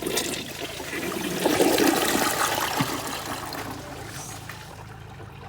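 2017 WaterRidge dual flush toilet flushing: a rush of water that builds to its loudest about two seconds in, then tapers off into a quieter wash near the end.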